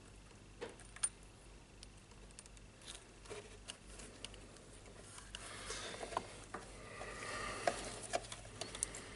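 Faint clicks and taps of small tools and parts, with a stretch of scraping and rustling in the middle, as a micro switch is worked loose from the radio.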